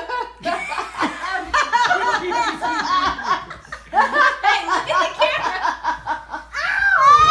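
People laughing hard and almost without pause, with a short lull a little before the middle.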